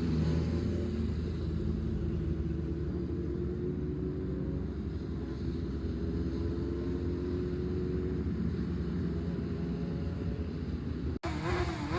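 Suzuki Hayabusa inline-four engine idling steadily through an aftermarket exhaust, a low even rumble. The sound drops out for a split second near the end.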